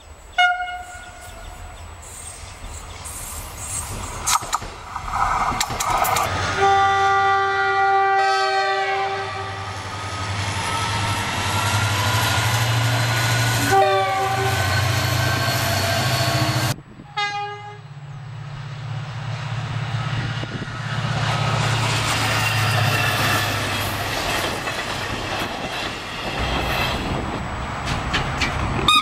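Passenger trains passing close by and sounding their horns. A long multi-tone horn blast drops in pitch at its end as the train goes past, and shorter horn blasts come near the start, in the middle and at the very end. Between the blasts is the steady rumble and wheel clatter of the passing railcars.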